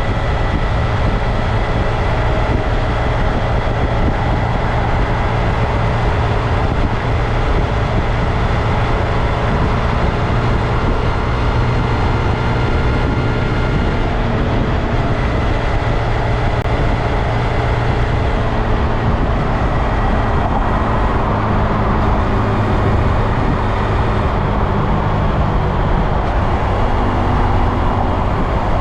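2022 Honda Grom's single-cylinder engine running steadily under a dense rush of noise, its pitch shifting slightly past the middle, as the bike is ridden.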